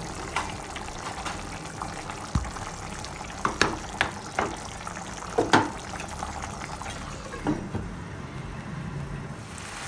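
Chicken bubbling and sizzling in oil and onion paste in a karahi (wok), with scattered sharp pops. Near the end a glass lid goes on, and the sizzle turns muffled.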